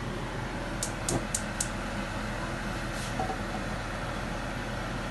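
Gas hob igniter clicking four times in quick succession about a second in, as the burner is lit to heat the pot, over a steady kitchen background hum.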